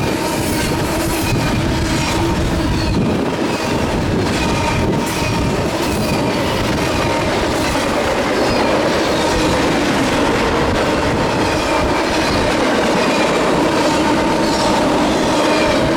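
Norfolk Southern eastbound intermodal freight train passing close at speed: a steady loud rush of wheels on rail, with clicks of wheels over rail joints and a faint steady squeal, and the train's wind buffeting the microphone.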